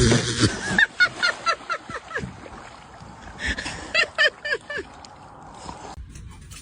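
A run of short squeaky animal calls, a few a second, in two bursts about two seconds apart.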